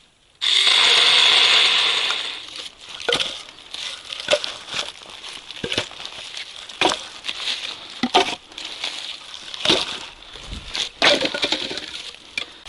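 Dry branches being cut with a pair of loppers: a loud rustle about half a second in, then a sharp crack every second or so as the branches snap.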